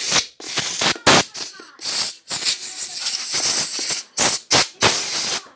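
Compressed air blown from a blow gun in repeated hissing bursts: several short puffs, with one longer blast of about a second and a half in the middle.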